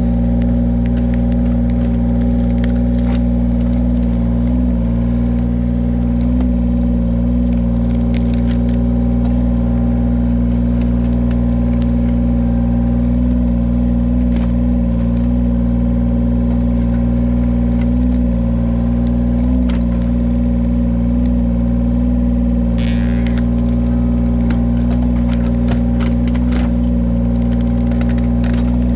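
Engine of a firewood-cutting machine running steadily at constant speed, its pitch sagging briefly now and then as it takes load. Scattered sharp cracks and knocks sound over it, and a short hiss comes in about two-thirds of the way through.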